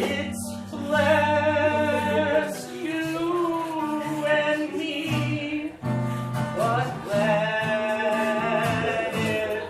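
Live band music: a singer holds long, wavering wordless notes with vibrato over sustained instrumental backing, with a short break about six seconds in before the next held note.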